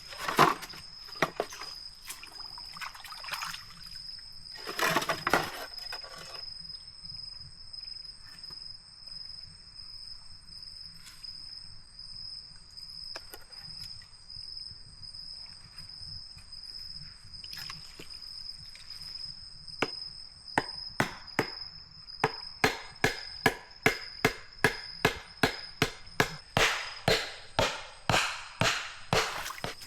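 Blade chopping bamboo: a few scattered strikes, then, from about two-thirds of the way through, a fast even run of about two to three chops a second, over a steady high-pitched tone.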